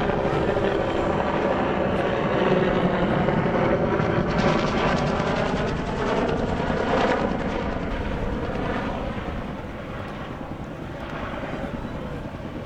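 Vietnam-era Bell helicopter with its Lycoming T53 turboshaft flying by, rotor beat and turbine loud in the first half, then fading away.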